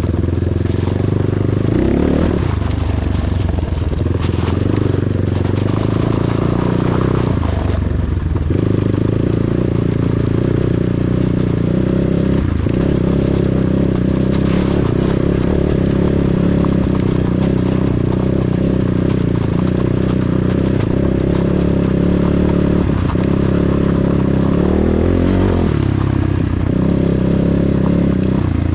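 Enduro motorcycle engine running steadily under way, with several brief dips in pitch as the throttle eases or gears change.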